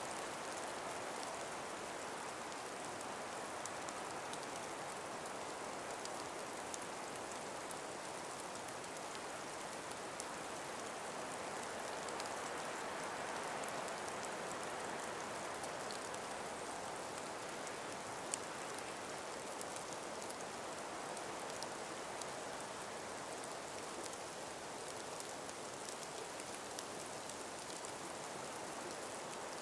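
Steady calm breeze through an ice- and snow-laden forest: an even hiss, with faint scattered ticks throughout and one slightly louder tick about halfway through.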